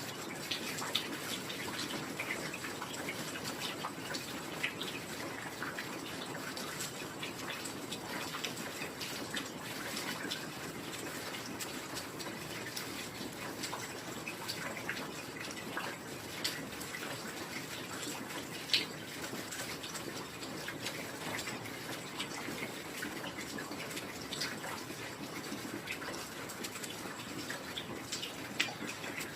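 Steady heavy rain falling, an even hiss with many separate drops ticking through it and a few louder single drips, one of them a little past halfway.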